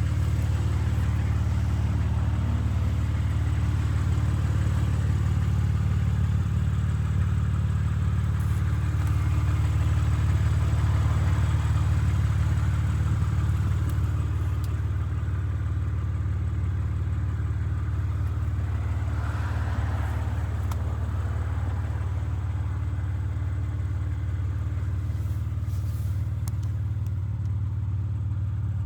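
BMW M3 Competition's 3.0-litre twin-turbo S58 inline-six idling steadily, a deep, even engine note.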